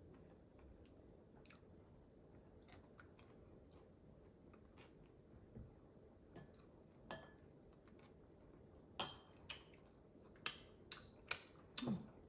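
Close-miked eating of tiger prawns by hand: a few seconds of quiet chewing, then a run of about seven sharp, wet smacks and clicks from the mouth and fingers.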